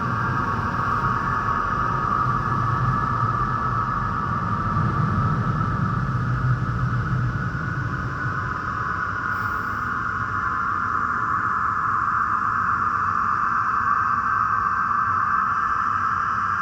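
Christ Varius automatic car wash machinery running steadily, a continuous rushing noise over a low rumble.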